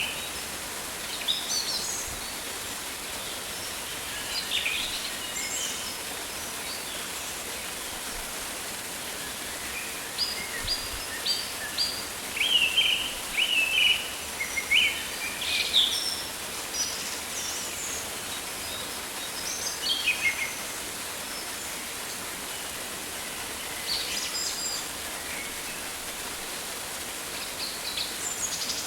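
Rainforest ambience: a steady hiss of rain with birds calling at intervals in short chirping phrases, a busy run of them about halfway through.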